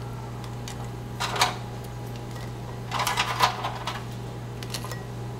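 Crispy baked tortilla strips being dropped into bowls of soup: two short bursts of crackly clicks, a little over a second in and again about three seconds in, over a steady low hum.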